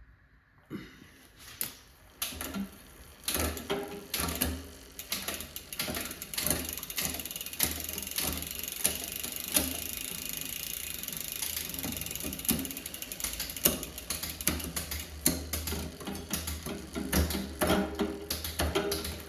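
Mountain bike drivetrain turned by hand in a work stand: a new chain running through a freshly fitted SRAM GX Eagle rear derailleur and over the cassette, with fast ratcheting clicks and a steady rattle. The derailleur is being tested while its limit screws are set.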